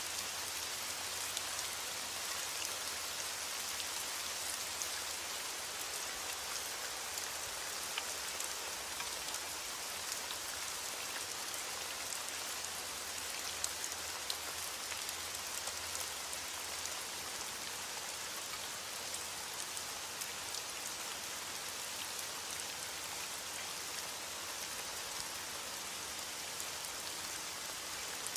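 Heavy rain falling steadily on a window: a dense, even hiss sprinkled with many small scattered ticks.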